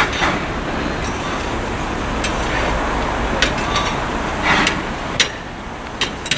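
A steady rumble with sharp metallic clinks and knocks at uneven intervals, about seven in all.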